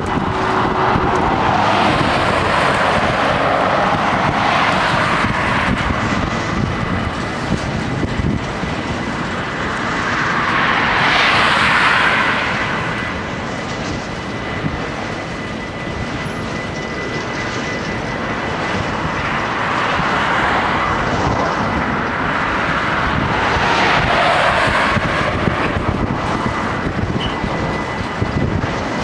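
Freight train of hopper wagons rolling past at a level crossing: a continuous rumble and rush of wheels on rails that swells louder and fades back several times as the wagons go by.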